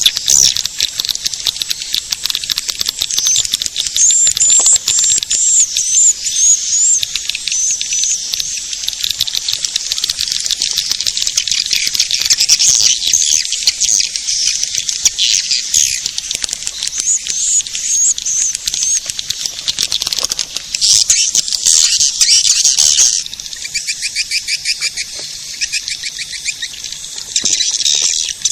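Swiftlet caller recording: dense, rapid twittering chirps of edible-nest swiftlets, the lure sound played to draw swiftlets into a nest house. About 23 seconds in, the chirping drops in level and changes to a different pattern.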